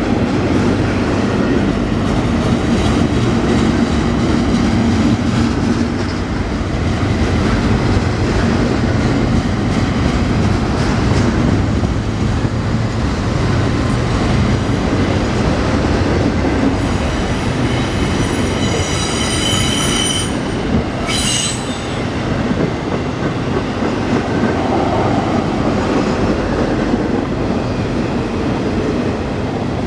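Freight train's intermodal cars, loaded with double-stack containers and trailers, rolling past with a steady loud rumble and rattle of wheels on rail. A high-pitched wheel squeal rises about 17 seconds in, stops near 20 seconds, and returns briefly about a second later.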